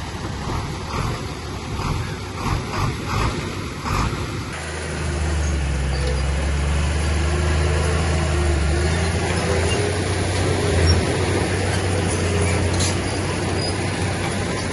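Heavy diesel engine of earthmoving machinery running. For the first four and a half seconds it comes in short, uneven pulses, then it changes abruptly to a steady low drone.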